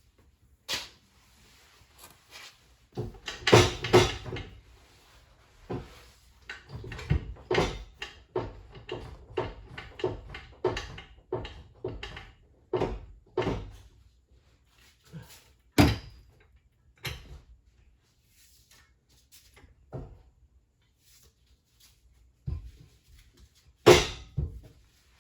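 Irregular knocks and clanks of hand tools working on a stuck part of a car's rear drivetrain. The loudest is a cluster about three to four seconds in; then comes a run of about two knocks a second, and another hard hit near the end.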